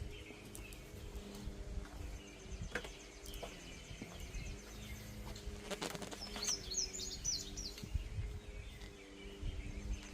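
Small birds chirping, with a quick run of short, high chirps about two-thirds of the way through, over a steady low hum; a few light clicks sound in between.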